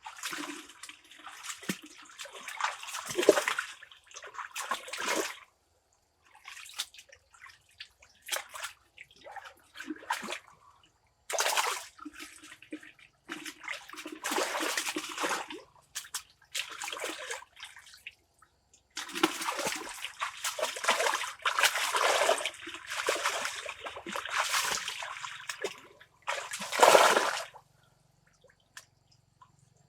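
Water splashing and sloshing in repeated bursts of a few seconds, with short quiet gaps between them.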